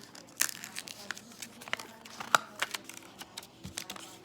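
A sheet of paper rustling and crinkling as it is folded and creased by hand, in irregular crackles and scrapes.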